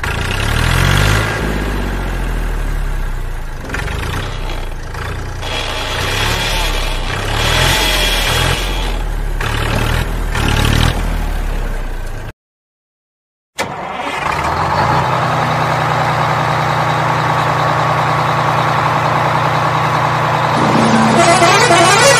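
A motor-vehicle engine sound that rises and falls for about twelve seconds. It cuts out suddenly for about a second, then comes back as a steady idle. The toys on screen have no motors, so the engine sound is dubbed onto the video.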